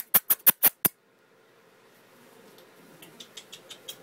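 A quick, even run of sharp clicks, about six in the first second, then a quiet stretch, with fainter clicks starting up again over the last second.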